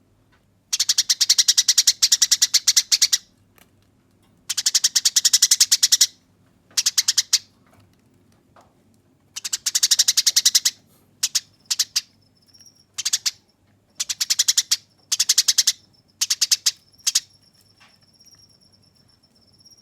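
Eurasian tree sparrow giving its harsh, rapid chattering fight call: bursts of fast repeated high notes, a few long runs of about one to two and a half seconds at first, then shorter, choppier bursts. In the second half a faint thin high whistle holds steady underneath.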